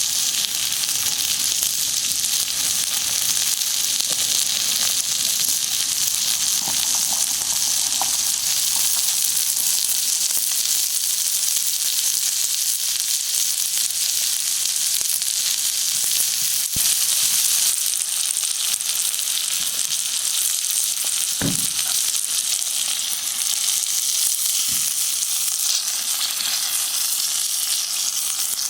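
Steak sizzling on a hot lava stone, a steady hiss, with a few sharp knocks in the second half.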